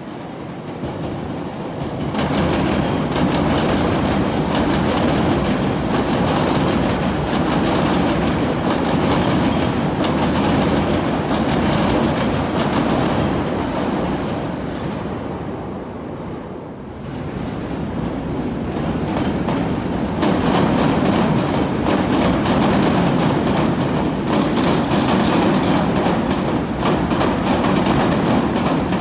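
CTA "L" rapid-transit train wheels clattering over the steel elevated track and the switches of the interlocking. The clatter builds about two seconds in, eases off around the middle, and swells again about twenty seconds in.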